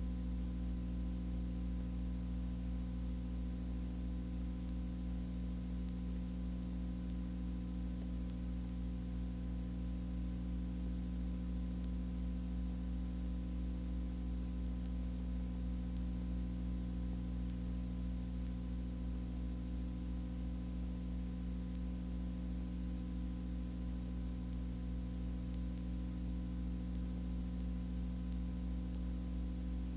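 A steady, unchanging hum made of several low tones, with hiss above it.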